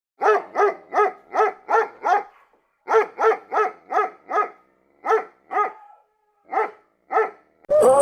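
A dog barking: two quick runs of evenly spaced barks, about three a second, then a few more widely spaced barks near the end.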